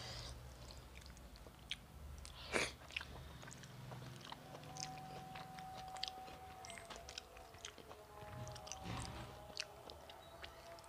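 Chewing and wet mouth noises of a person eating rice mixed with dal by hand, with scattered small clicks and one louder burst about two and a half seconds in.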